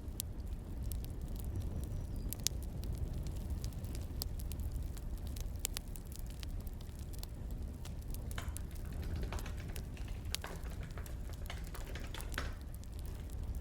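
Crackling wood fire with scattered sharp pops over a steady low rumble. A denser run of clicks comes in the second half.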